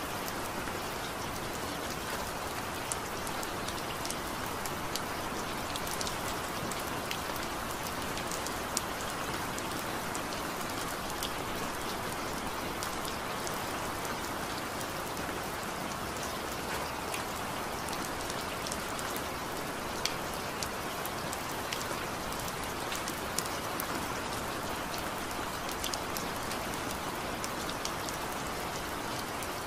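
Steady rainfall: an even hiss of rain with scattered sharper raindrop hits.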